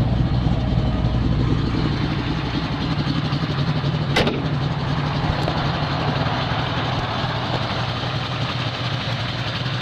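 Rebuilt DZ 302 small-block V8 with solid lifters and headers, idling steadily and smoothly. A single sharp click sounds about four seconds in.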